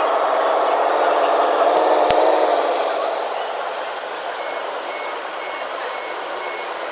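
A remote-control construction truck's running sound with a wavering whine and a sharp click about two seconds in, then a reversing beeper starting about halfway through, beeping about twice a second.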